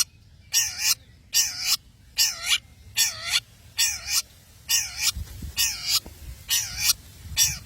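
Long-tailed shrike (cendet) giving a run of harsh calls, about one a second, each short and alike.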